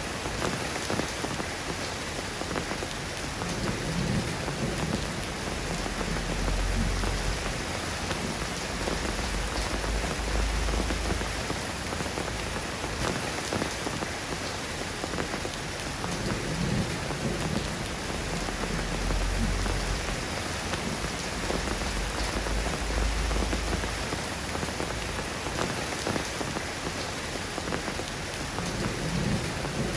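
Steady rain falling, an even hiss, with several low rumbles along the way.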